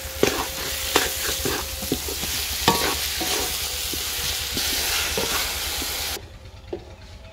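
Grated carrots sizzling as they fry in desi ghee in a metal karahi, with sugar just mixed in, while a wooden spoon stirs them, knocking and scraping against the pan. The sizzling cuts off suddenly about six seconds in.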